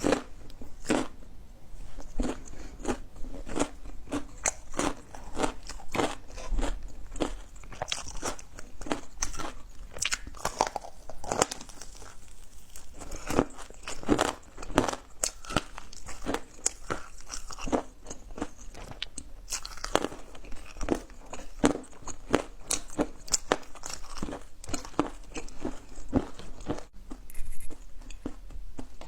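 A person biting and chewing crunchy food, with many crisp crunches coming irregularly one after another.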